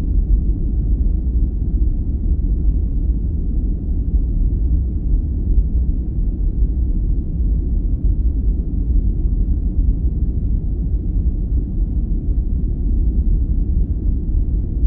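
Steady sleep-aid noise, deep and rumbling, with no high hiss and no change in level.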